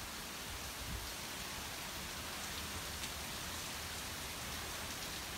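Steady rain from the weak side of a hurricane: an even hiss with a few faint ticks of drops.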